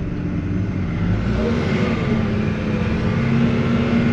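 Vehicle engine running under load in low range, its pitch stepping up a little over a second in and then holding steady as it pulls through rough ground.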